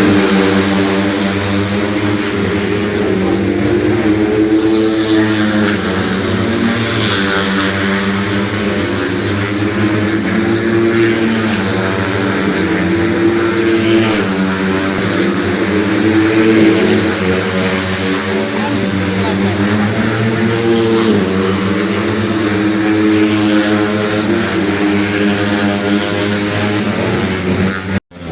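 Cub Prix racing motorcycle engines running at high revs, their pitch rising and falling steadily as the bikes accelerate and ease off. It cuts off suddenly near the end.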